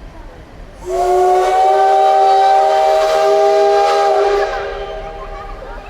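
Steam locomotive CT273's whistle blown in one long, loud blast of several steady tones at once, starting about a second in and held about three and a half seconds, then cutting off into a fading hiss.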